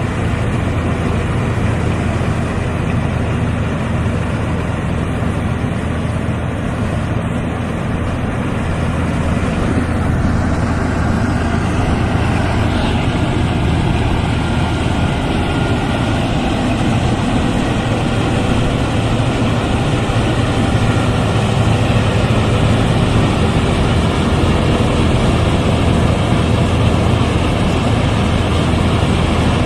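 Rice combine harvester running steadily, with a continuous engine and machinery drone that grows slightly louder about a third of the way in.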